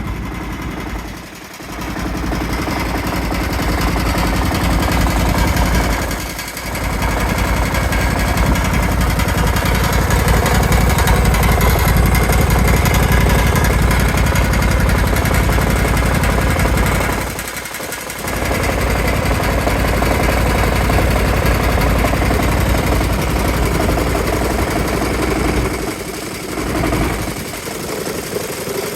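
Kawasaki FH531V 18 HP air-cooled V-twin mower engine running loud with a rapid, heavy knock; the sound dips briefly a few times. The owner suspects a bent crankshaft.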